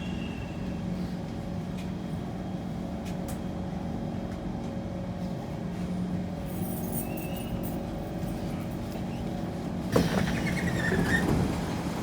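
Kawasaki C151 metro train standing at an underground platform, its auxiliary equipment giving a steady electrical hum. About ten seconds in comes a sudden knock, followed by louder rattling noise.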